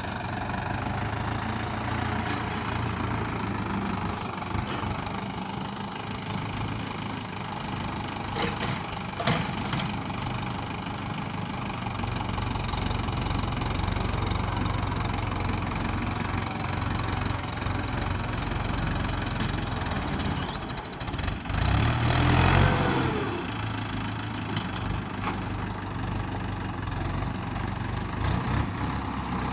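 Tractor engine running steadily at idle. A few sharp knocks come about a third of the way in, and about three-quarters through the engine note rises and falls briefly in the loudest part.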